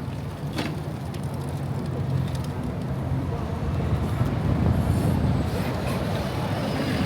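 City street traffic: vehicle engines running and passing, with a low rumble that grows louder toward the end and a short click about half a second in.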